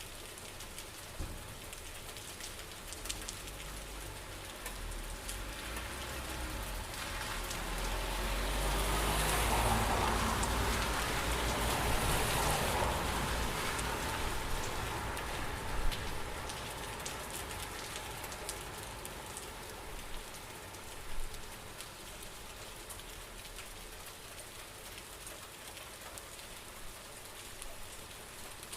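Steady rain falling, with scattered drops ticking on a surface. A low rumbling swell builds, peaks in the middle and fades away, and a couple of louder single drips or knocks come later.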